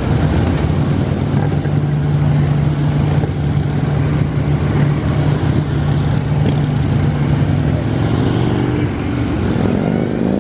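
Several police motorcycles riding slowly in a close weave formation, their engines running steadily at low speed. Near the end, bikes pass close and the engine pitch rises and falls.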